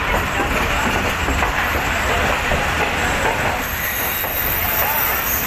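Passenger train coaches rolling slowly along a station platform: steady rumble and wheel noise over the rails, with a thin high wheel squeal setting in about two-thirds of the way through.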